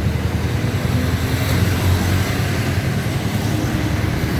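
Steady, loud motorbike and street traffic noise: a low, continuous rumble of engines and tyres.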